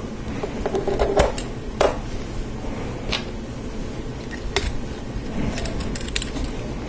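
Plastic Lego Technic parts being handled and fitted: scattered small clicks and taps, with a quick run of clicks near the end.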